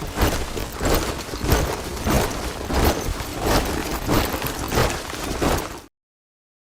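A body of soldiers marching in step, many boots tramping on a hard surface in a steady rhythm. It cuts off suddenly to silence near the end.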